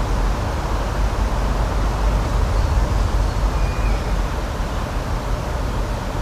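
Outdoor nature ambience: a steady rushing noise with a deep, constant rumble underneath, and a brief faint high tone about three and a half seconds in.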